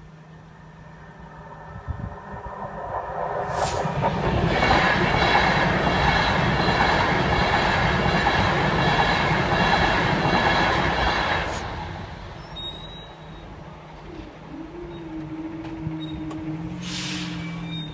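Virgin Trains Class 390 Pendolino electric train passing through the level crossing at speed. The rush of wheels and air builds over a couple of seconds, stays loud for about seven seconds and then falls away. Afterwards a steady low hum sets in as the crossing barriers rise.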